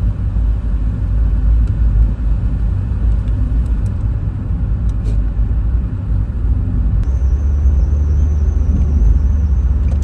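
Low, steady rumble of a car's engine and road noise heard from inside the cabin while driving, with a few faint clicks; a thin, wavering high whine joins about seven seconds in.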